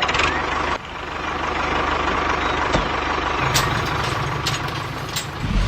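Tractor engine idling with a steady low chugging. The sound drops sharply about a second in, then builds back up.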